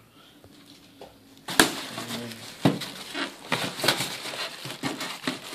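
Packaging being handled during unboxing: a sharp knock about a second and a half in, then irregular rustling, crinkling and clicking of plastic and cardboard.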